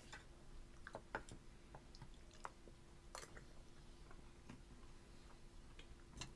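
Faint, scattered wet mouth clicks of a toddler chewing and sucking food off his fingers, over quiet room tone with a faint steady hum.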